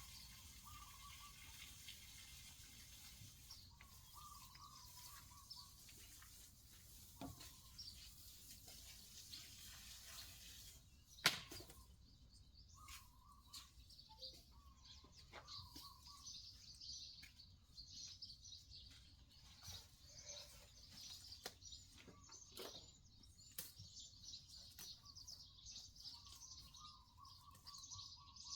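Faint birdsong of short repeated chirps, with quick high twittering from about halfway on. A single sharp click about eleven seconds in is the loudest sound, and lighter clicks are scattered throughout.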